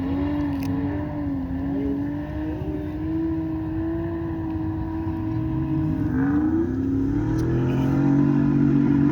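A car engine running and being revved, its pitch wavering up and down and then climbing and holding higher from about six seconds in.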